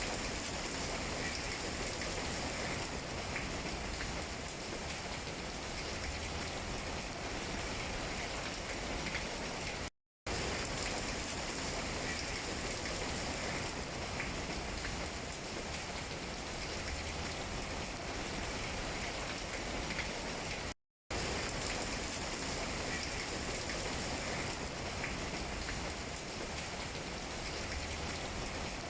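Steady rain falling on tree leaves: an even hiss with faint patter of single drops. The sound cuts out to silence for a split second twice, about 10 and 21 seconds in.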